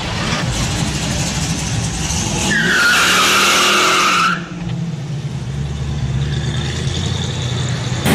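A car engine running, with a loud tyre squeal lasting nearly two seconds about two and a half seconds in that cuts off suddenly; the engine keeps running steadily afterwards.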